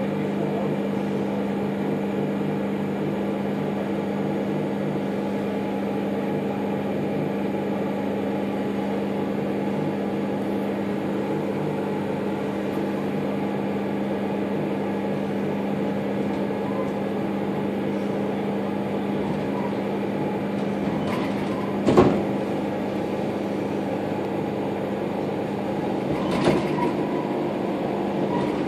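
Steady electrical hum of a stationary electric commuter train, heard from inside the carriage. A sharp knock comes about 22 s in and a lighter one about 26 s in, as the train begins to pull away near the end.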